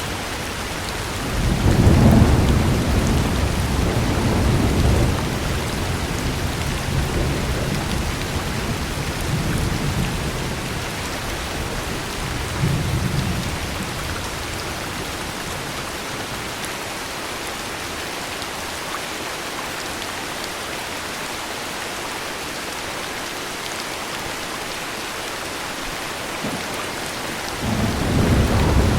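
Steady heavy rain with rolling thunder: a deep rumble swells about a second and a half in and slowly fades over several seconds with a few smaller rolls after it, and another roll of thunder begins near the end.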